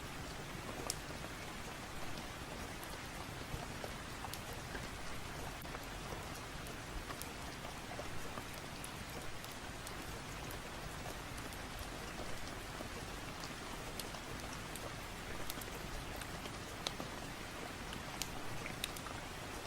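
Steady rain falling, an even hiss with scattered sharp ticks and clicks through it.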